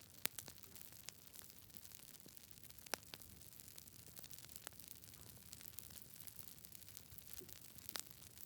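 Wood fire crackling in a fireplace: scattered sharp pops a few seconds apart over a soft, steady hiss.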